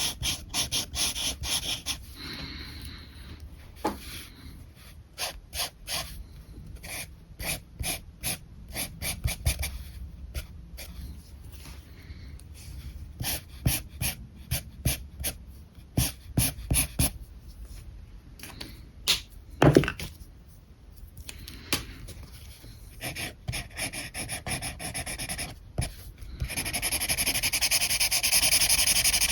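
Alcohol marker tips scratching across paper: many quick, short strokes, then a louder, continuous stretch of colouring a few seconds before the end.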